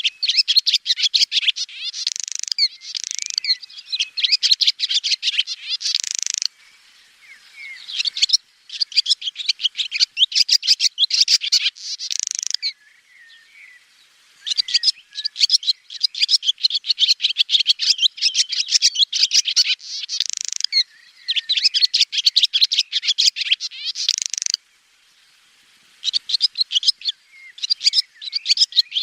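Swallows twittering: fast runs of high chirps and trills in phrases a few seconds long, broken by short pauses about three times.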